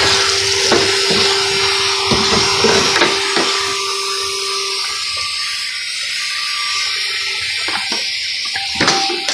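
Henry Extra vacuum cleaner running with a steady whine and rushing air as its hose sucks soot and debris out of a wood-burning stove. Bits of debris click and rattle through the nozzle, with the clicks and knocks thickest in the first half and again near the end.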